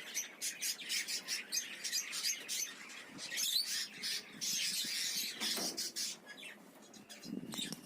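A flock of budgies and African lovebirds chirping and chattering: many short, high chirps overlapping, thinning out about six seconds in.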